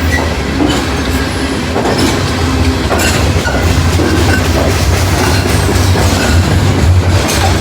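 Freight train of steel-coil cars rolling past close by: a steady low rumble with the clickety-clack of wheels over rail joints and a few brief faint wheel squeals.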